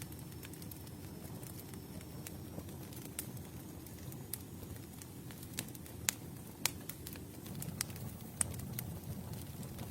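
Campfire burning: a steady low rustle of flames with scattered sharp crackles and pops from the wood. A few louder pops come in the second half.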